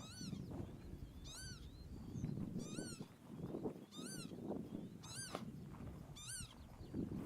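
A bird giving short, high, rising-and-falling cries, repeated evenly about once every second and a bit, over a low wind rumble.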